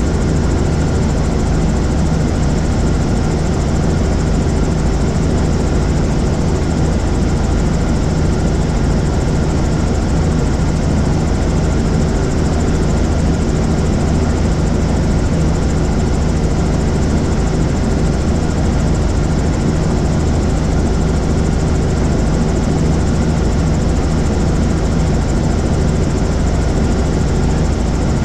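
Helicopter in flight: steady engine and rotor noise with an even low hum, unchanging throughout.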